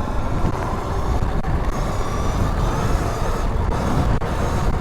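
Wind rushing over the rider's lav mic while a 2019 Sur-Ron electric dirt bike is ridden at speed, with a faint electric motor whine that rises a little partway through.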